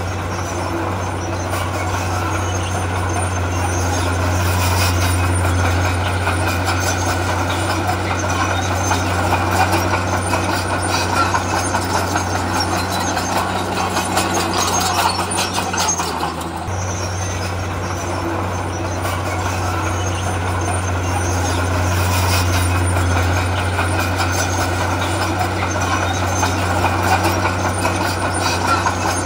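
Heavy diesel earthmoving machinery running steadily, a constant low engine drone with rattles over it.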